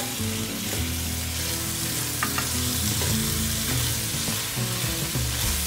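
Chopped tomatoes and onions sizzling in oil in an enamelled cast-iron Dutch oven while a silicone spatula stirs and scrapes them around the pot.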